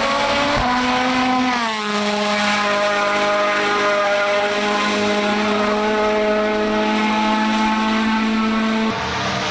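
Rally car engine running hard at high revs. The pitch drops briefly about two seconds in, then holds steady, and the sound changes abruptly near the end.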